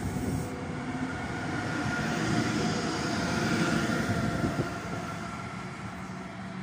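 An Intercity train with a DB Class 101 electric locomotive at its rear runs past: wheels rolling on the rails, with a steady whine from the locomotive. The sound is loudest about three seconds in as the locomotive passes close by, then fades as it moves away.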